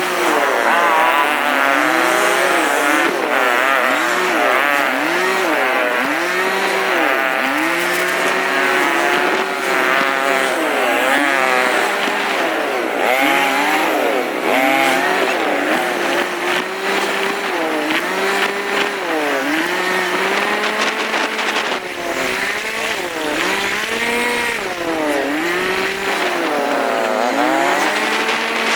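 Motorcycle engine revving hard, its high-pitched note climbing and dropping again and again as the throttle is opened and eased, about once every second or two.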